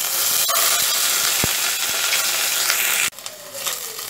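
Ginger paste sizzling and spattering loudly as it hits hot mustard oil in a nonstick kadai. The sizzle cuts off suddenly about three seconds in, leaving a quieter sizzle and a spatula stirring in the pan.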